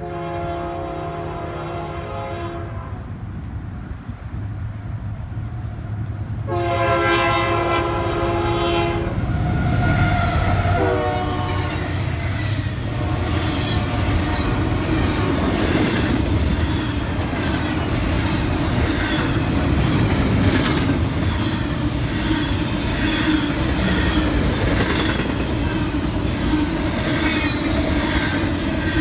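Diesel locomotive horn on an approaching Union Pacific freight: two long blasts, then shorter ones that drop in pitch as the locomotives pass. The double-stack intermodal well cars follow with a steady rolling rumble and rhythmic wheel clatter over the rail joints.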